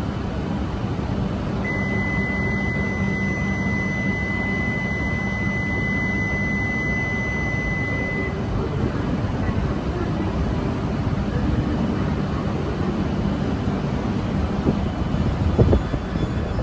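A steady electronic warning tone sounds for about six and a half seconds, starting a couple of seconds in, over the continuous low rumble of a Shinkansen station platform with trains about.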